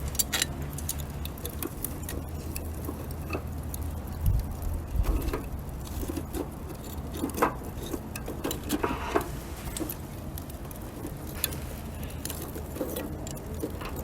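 Bonfire of wood and bamboo crackling, with irregular sharp pops scattered throughout, over a low wind rumble on the microphone.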